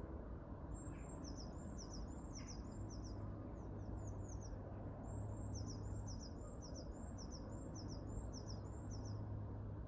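Birdsong: two runs of quick, high chirps, each note sweeping downward, the first run near the start and a longer one in the middle. A steady low hum lies under it.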